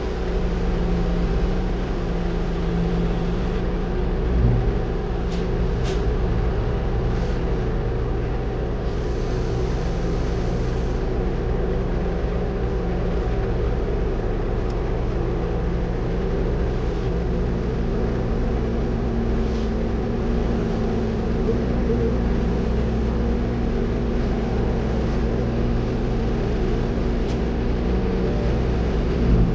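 Steady diesel engine drone of a concrete mixer truck heard inside its cab, with a few faint clicks.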